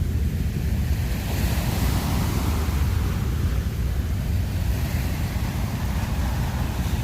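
Strong wind buffeting the microphone: a steady, flickering low rumble with a rushing hiss above it.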